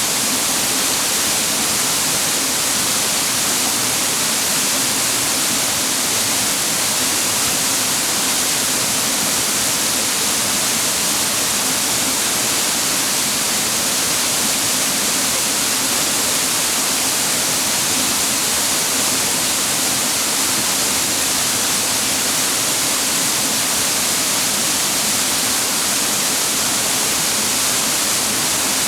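Clear mountain water rushing and falling over rocks, an even, unbroken hiss that stays at the same level throughout.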